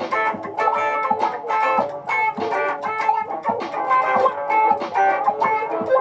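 Layered electric guitar loops playing together: busy, quickly repeating plucked notes stacked over one another.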